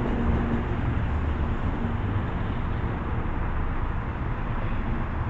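MBTA diesel commuter rail train running past the platform, a steady low rumble with a faint engine tone that comes and goes.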